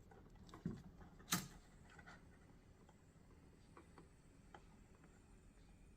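Near silence with a few faint, sharp clicks and taps from hand handling, the clearest about a second and a half in.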